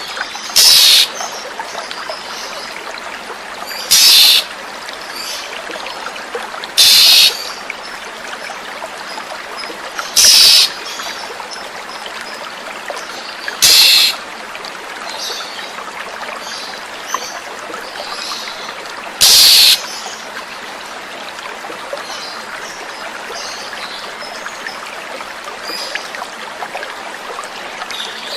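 Oriental magpie-robin giving six loud short calls, each about half a second long and spaced a few seconds apart, over steadily running water, with faint small chirps in between.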